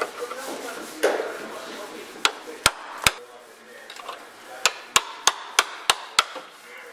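Sharp hammer strikes on the metal of a car body being worked for rust repair: a few spaced blows, then a quick run of six at about three a second.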